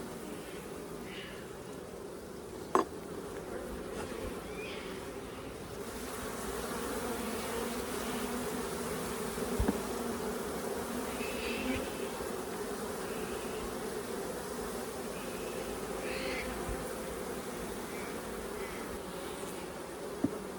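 Honeybees buzzing steadily around an opened hive as its frames are lifted out and inspected. Two brief sharp knocks come through, about three seconds in and near the end.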